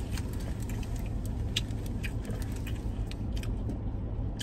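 Chewing with small scattered mouth clicks, over a steady low hum.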